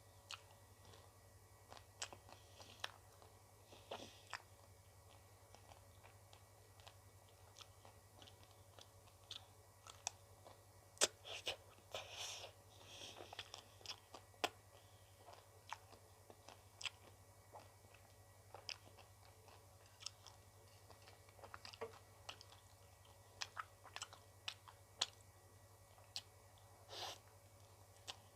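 Close-miked chewing and biting of ice cream: scattered sharp crunches and clicks, with a few longer mouth noises near the middle and near the end.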